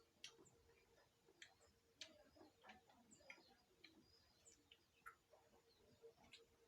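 Near silence: faint scattered ticks and brief high chirps over a faint steady hum.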